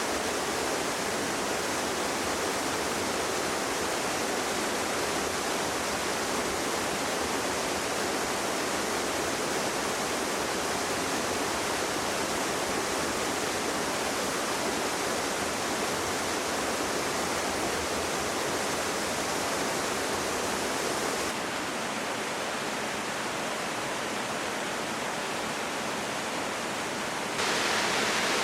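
Mountain stream rushing over rocks: a steady, continuous noise of flowing water. It drops abruptly to a slightly quieter, duller rush about three-quarters of the way through, then jumps abruptly louder and brighter near the end.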